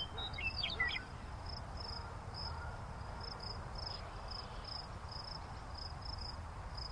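Cricket chirping sound effect, short high chirps repeating about three times a second, the cartoon cue for an awkward silence; a few quick gliding chirps come in within the first second.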